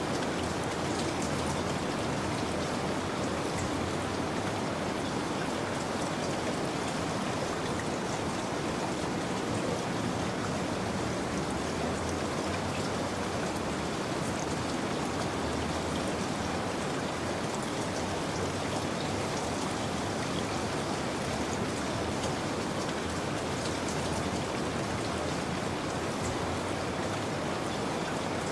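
Steady rain, an even hiss with scattered drops ticking through it.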